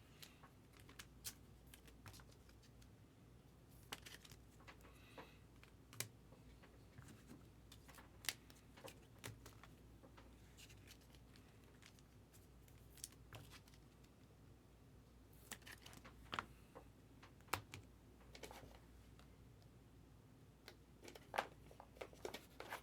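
Faint, irregular clicks and rustles of trading cards being handled and turned over, with a few sharper clicks standing out.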